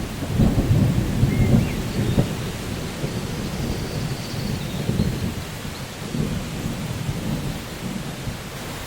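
Rainstorm with steady rain and low, rolling thunder, the rumble heaviest in the first couple of seconds and easing after. A few faint whistled bird calls come through, about a second and a half in and again near the middle.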